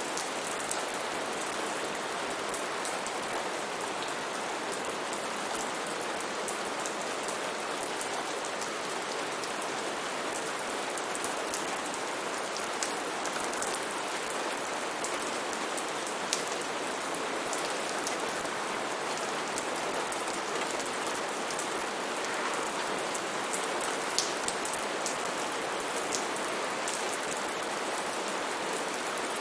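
Steady rain falling on foliage and surfaces, a constant hiss with many individual drops tapping sharply throughout.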